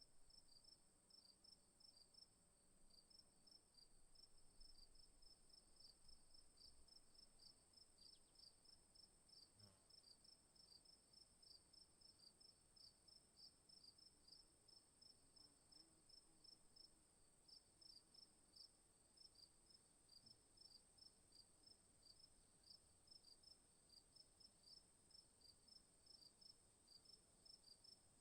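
Faint insect chorus: a steady high-pitched buzz with quick, regular chirps over it.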